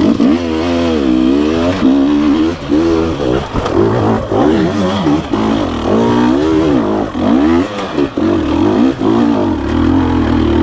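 Dirt bike engine riding on trail, revving up and down about once a second as the throttle is worked.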